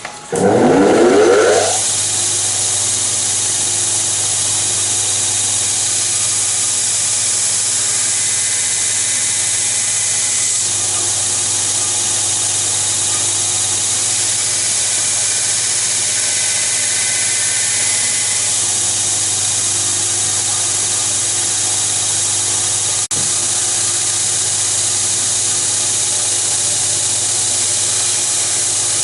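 Electric grinder switched on, its motor whining up to speed over the first second or two, then running steadily at full speed.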